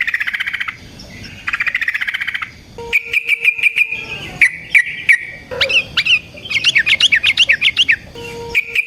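Yellow-vented bulbul (trucukan) singing a long, fast rolling song. It gives runs of rapid chattering notes, then quick rising and falling whistled notes from about five and a half seconds in.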